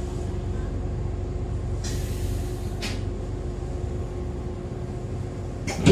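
Inside an Echizen Railway MC6101-series electric railcar: a steady low rumble with a constant hum, broken by two short hisses of air about two and three seconds in. Near the end a sharp knock, after which the running noise grows louder.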